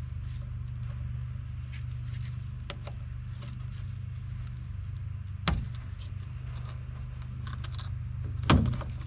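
Hand tools clicking and clinking against metal while working at a pickup's fuel pump, with two sharper knocks about five and a half and eight and a half seconds in, over a steady low hum.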